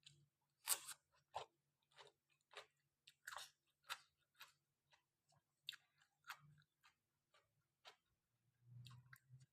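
A person chewing a mouthful of rice noodles and curry close to the microphone. Faint, irregular wet mouth clicks and crunches come about twice a second, with a louder click near the start.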